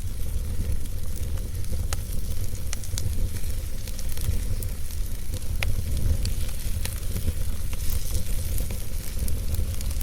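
Campfire burning, with scattered sharp crackles and pops over a steady low rumble and a light hiss.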